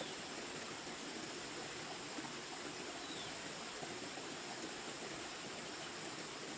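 A steady, even rushing noise, with a faint, brief high chirp about three seconds in.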